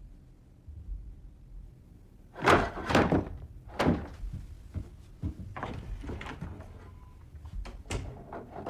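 A series of thuds and knocks, the loudest cluster about two and a half to four seconds in, with lighter knocks afterwards.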